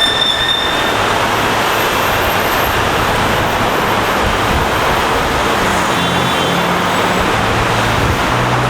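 MCI D4500CT coach bus under way, its Caterpillar C-13 diesel engine humming over steady road and tyre noise.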